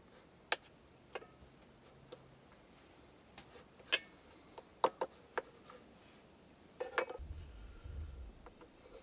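A scattering of sharp clicks and taps of cutlery against a plate as a steak is cut, irregularly spaced over several seconds, with a low rumble setting in near the end.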